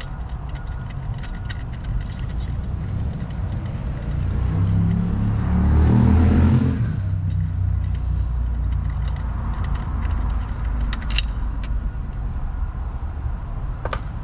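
Light metallic clinks and taps of a wrench working bolts on an outboard motor's lower unit, with a sharper ringing clink about three-quarters of the way through. These sit over a steady low rumble that swells into a louder engine-like drone and fades again around the middle.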